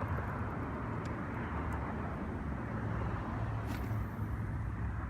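Wind buffeting the microphone outdoors: a steady low rumble and hiss, with a brief sharper hiss about three and a half seconds in.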